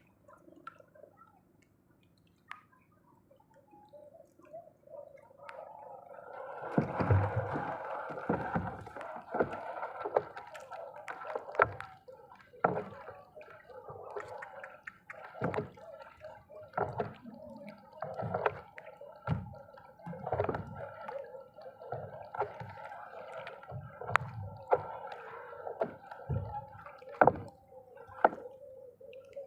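Water gurgling and bubbling, with irregular knocks and clicks. It starts a few seconds in and carries on unevenly.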